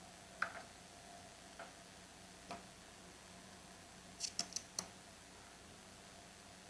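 Faint clicks and taps of small parts and tools being handled during a chainsaw teardown. Single clicks come spaced a second or so apart, then a quick cluster of four near the end, over a low steady hum.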